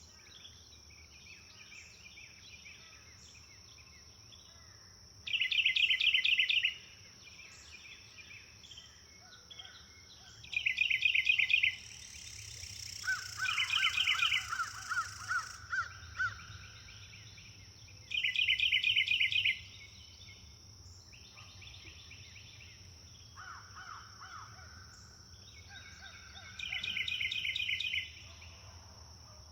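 Forest birds singing. One bird repeats a loud, fast trilled phrase about every five to eight seconds, and others answer with lower trills, over a steady high-pitched drone.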